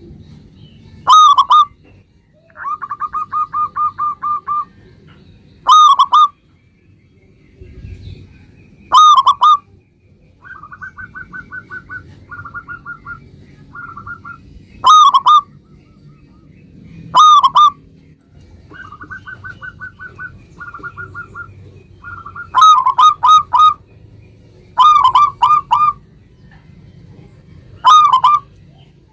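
Zebra dove (perkutut) cooing: loud, short ringing coo phrases every few seconds, with softer runs of fast staccato coo notes between them.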